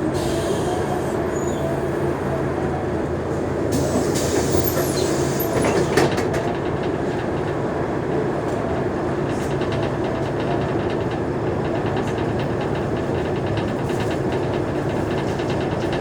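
Mercedes-Benz O345G articulated bus running along with a steady diesel engine drone, overlaid by rattles and clicks from the body. There is a louder, rougher stretch about a third of the way in.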